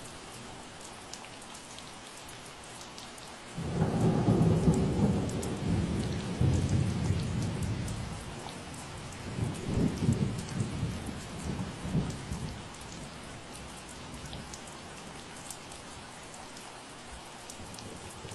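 Steady rain falling, with fine drips ticking on surfaces. About four seconds in, a low rumble of thunder starts suddenly and rolls on for several seconds. It swells again briefly before dying away under the rain.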